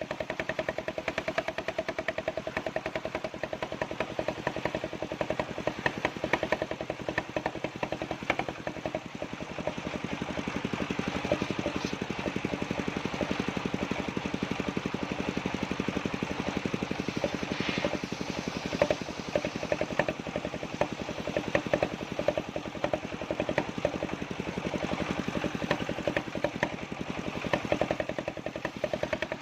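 Engine of a circular sawmill running steadily, with a fast, even firing beat.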